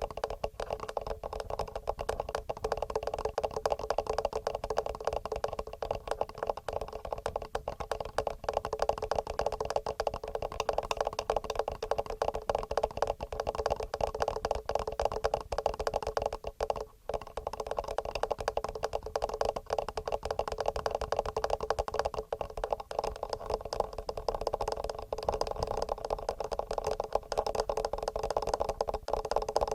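Fingernails tapping rapidly on a TASCAM recorder's microphone and body, a dense, unbroken patter of quick taps with a short break about halfway through.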